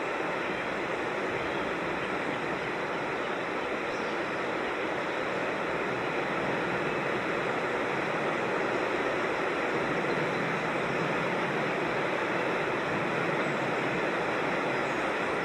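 Creek water rushing and splashing over rocks or a small waterfall: a steady, even rush. A faint bird chirp shows briefly about four seconds in.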